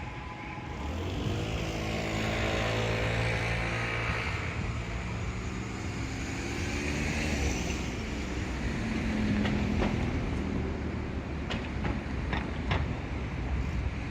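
Nankai Main Line electric train passing a level crossing: a continuous rumble with a motor hum whose pitch bends over the first several seconds, and a few sharp clacks near the end.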